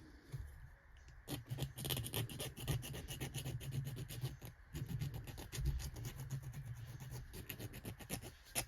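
Quick scratching strokes of a hand tool working a small metal part, several a second, starting about a second in.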